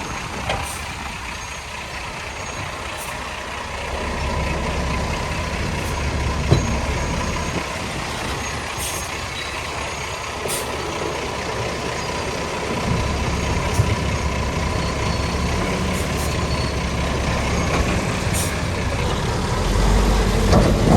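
Heavy diesel earthmoving machinery running steadily, its low engine rumble swelling about four seconds in and again later, with a faint steady whine and a few light clanks.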